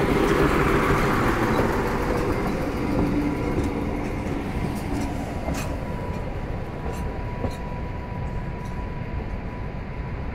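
DB Class 628.1 diesel railcar rolling past and drawing away, its rumble fading steadily, with a few sharp clicks in the second half. A thin steady tone sounds throughout.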